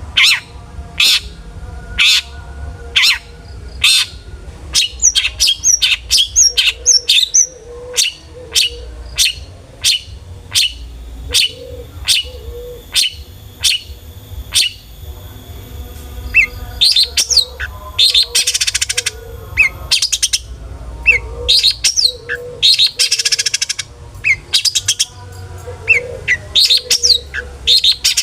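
Long-tailed shrike (cendet) singing loudly: sharp, downward-sweeping calls about once a second, then quicker, varied phrases with dense buzzy trills, the mimicked 'isian' songs of a bird in full song.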